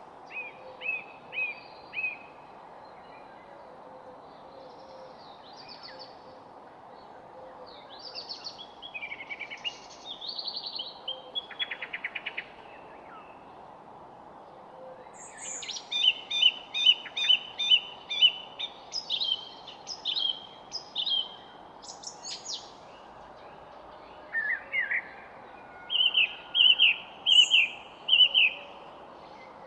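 Several songbirds singing in short repeated phrases of chirps and whistles, over a steady background hiss. The singing pauses twice and is busiest in the second half.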